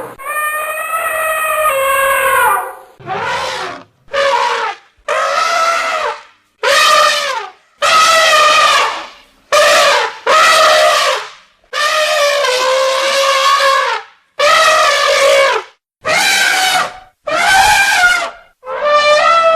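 Elephants trumpeting: a dozen or so loud, brassy calls in quick succession, each about a second long with short gaps between, some wavering or falling in pitch at the end.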